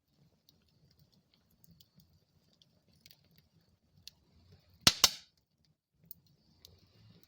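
Wood fire burning in a fireplace: faint low flame rumble with scattered small crackles, and a loud sharp double pop about five seconds in.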